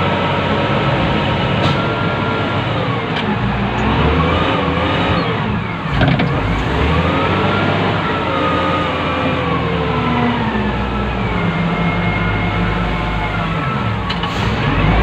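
Wheel loader's diesel engine heard from the operator's cab, repeatedly revving up and dropping back as the machine works, with a short knock about six seconds in.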